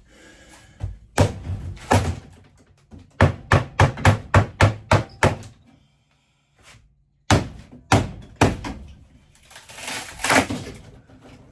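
Hard knocks and bangs of RV interior cabinetry being beaten and pried loose during demolition. Single blows give way to a quick run of about ten strikes at roughly five a second, then more blows and a rougher, crashing stretch near the end.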